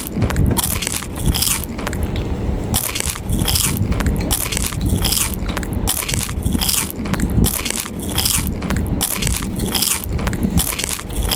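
Crunchy biting and chewing of crisp McDonald's fried food, a close, loud run of crackling crunches at about two to three a second.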